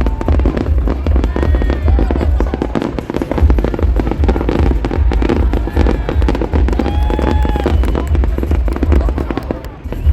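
Aerial fireworks display bursting without pause: many overlapping pops and crackles over deep booms, with music playing underneath.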